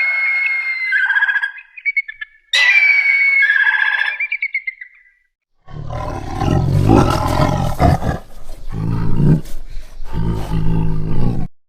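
A horse whinnying twice, high shrill calls that trail off in a quaver. From about six seconds in comes a deep, rough animal roar in several long pulses.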